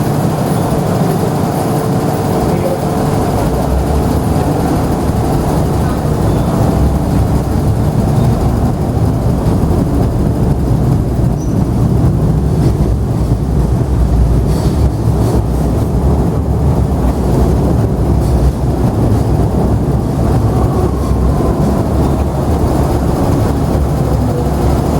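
MTR M-Train electric multiple unit running, a loud steady rumble of wheels and traction gear. Toward the end a faint falling whine comes in from the traction motors as the train brakes.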